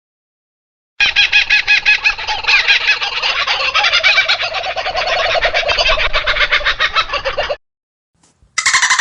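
Domestic fowl calling in a long run of rapid pulsing notes, starting about a second in after a silent gap and cutting off abruptly near the end.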